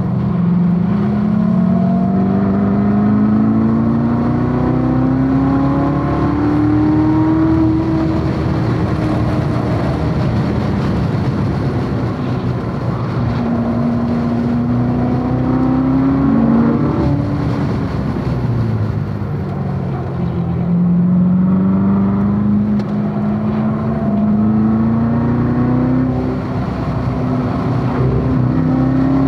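Chevrolet Corvette C7 Z06's supercharged 6.2-litre V8 at full throttle on a race track. The engine note climbs steadily through long pulls, drops back sharply about two-thirds of the way in, then climbs again.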